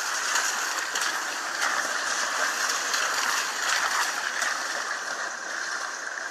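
Heavy rain coming down, a steady hiss with scattered sharp ticks of drops.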